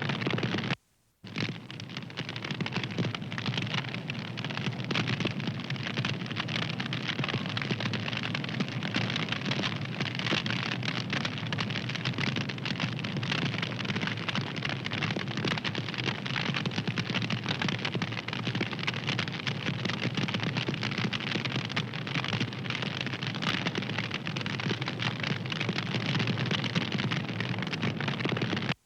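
Wood fire crackling: a dense run of small pops and snaps over a soft hiss. The sound drops out briefly about a second in.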